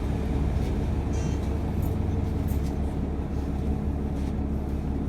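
A public transit vehicle running with a steady low rumble, with a few faint clicks and a brief high squeal about a second in.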